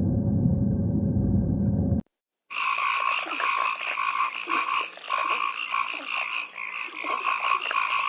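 A low rumble that cuts off about two seconds in, then after a short gap a dense chorus of frogs croaking, many overlapping calls pulsing together.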